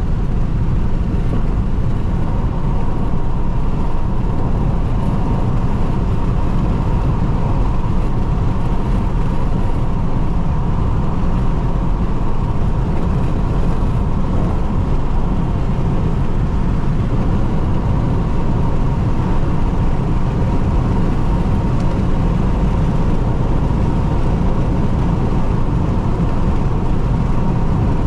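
Jeep Renegade's turbodiesel engine and tyres: a steady rumble of a car cruising fast on the highway, heard from inside the cabin, with a faint steady whine above it.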